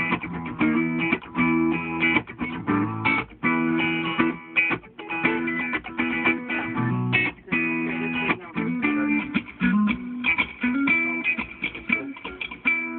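Reggae chords played in short, choppy rhythmic stabs on a single instrument, with a low line moving beneath them. The sound is dry, with no effects on it, as heard in a soundcheck.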